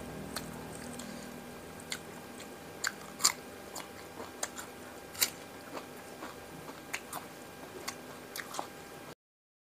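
Close-miked eating sounds: chewing and crisp crunching of fried mujair fish and raw vegetables, in scattered sharp crunches, the loudest about three and five seconds in. The sound cuts out completely near the end.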